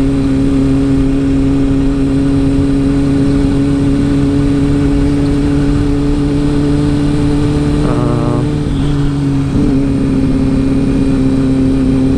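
Motorcycle engine running at a steady cruising speed while riding, with wind noise on the microphone. About eight seconds in the engine note briefly drops and changes, then settles back to a steady note a second and a half later.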